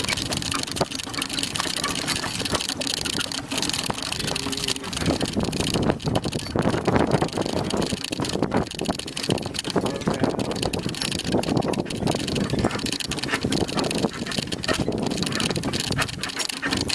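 Horse-drawn cart under way behind a pair of horses: a steady rumble of wheels with constant rattling and clatter, a little louder from about five seconds in.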